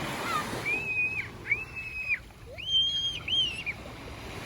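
A bird calling four times in short, clear, arched cries, the last two close together, over the steady wash of surf and wind.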